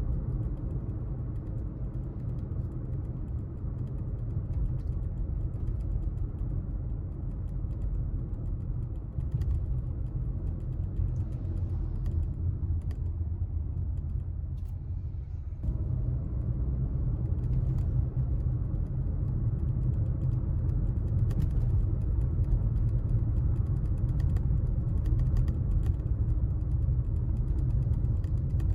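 A car driving through town streets: a steady low rumble of engine and road noise, with faint scattered ticks and creaks. It eases off briefly, then comes back abruptly and a little louder about two-thirds of the way in.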